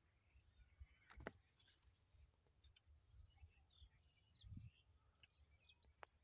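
Very faint birds chirping and twittering in the background, with a sharp click about a second in and another near the end, and a soft low rumble a little past the middle.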